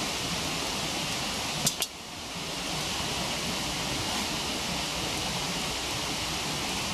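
Waterfall rushing steadily, with two sharp crackling pops from the burning firewood a little under two seconds in.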